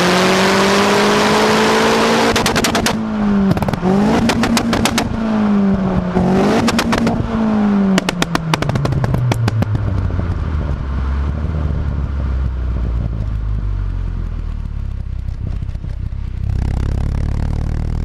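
Astra GSI's turbocharged Z20LET four-cylinder revving through a decat Milltek exhaust, with four quick clusters of sharp pops and bangs from its pop-and-bang ignition-cut map as the revs are held and dropped. After about ten seconds the engine settles to a low idle, and it gets louder again near the end.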